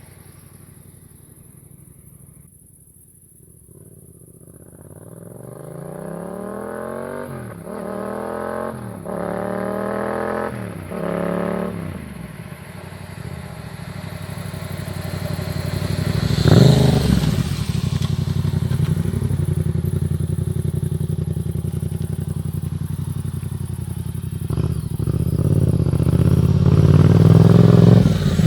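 Yamaha MT-07's 689 cc parallel-twin through an aftermarket Black Widow exhaust with the dB killer fitted, accelerating through about four quick upshifts, each a rising note. It then runs on more steadily, with a sharp loud peak about halfway through and the engine note building again near the end.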